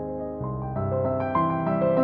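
Background piano music, soft notes held and new ones struck every fraction of a second.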